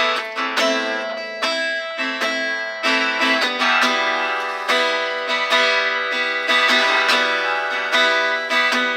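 Guitar strummed in a steady rhythm, about two strokes a second, with the chords ringing on between strokes and the playing filling out about halfway through.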